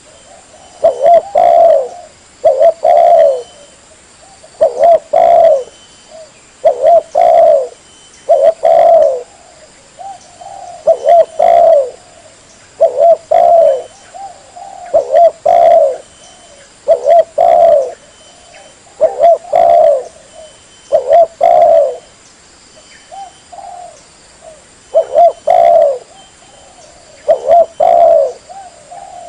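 Spotted dove (tekukur) cooing: loud phrases of two or three low, rolling coos, repeated about every two seconds. This is a recorded song played as a lure call for the species.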